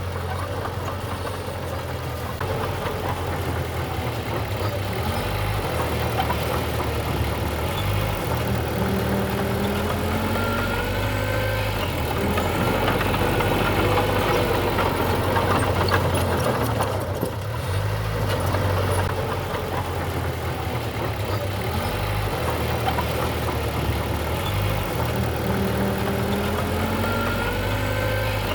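Diesel engine of heavy earthmoving machinery running steadily under work, its note shifting up and down several times with faint rising and falling whines.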